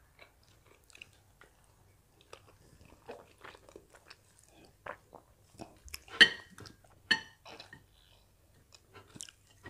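Close-miked chewing and wet mouth sounds of people eating soft, sticky starch and banga soup by hand: scattered smacks and clicks, the loudest a little past the middle.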